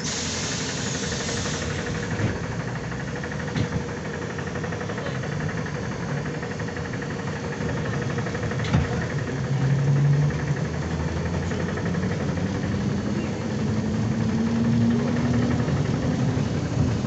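ZiU-9 trolleybus pulling away, heard from inside: a short blast of air hiss at the start, then steady running noise with a few knocks and rattles, and from about halfway the traction motor's hum rising in pitch in steps as the bus accelerates.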